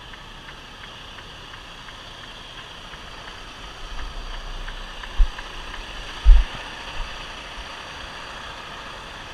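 Semi-truck engine running, heard from inside the cab while the truck works through soft sand, with a steady hum and faint regular ticking in the first few seconds. Two heavy low thumps come about five and six seconds in, the second the loudest.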